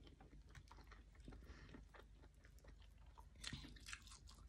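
Faint close-up chewing of a mouthful of rice and omelette, with small wet mouth clicks; a louder cluster of clicks comes about three and a half seconds in.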